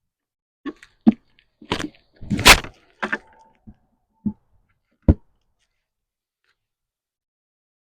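Wooden beehive parts knocking and clunking together as the hive is closed up: a run of sharp knocks over about five seconds, the loudest about two and a half seconds in.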